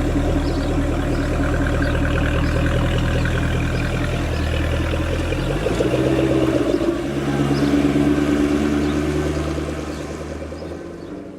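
Jaguar F-Type's supercharged engine running at low, steady revs. The engine note shifts about halfway through, and the sound then fades away near the end.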